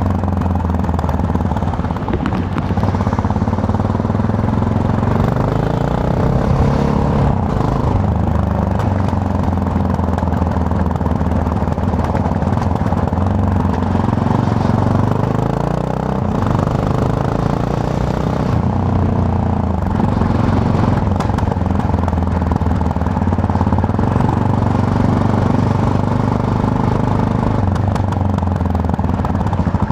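Yamaha MT-03 motorcycle engine running while riding, its pitch rising and falling several times with throttle and gear changes, over a steady rush of wind and road noise.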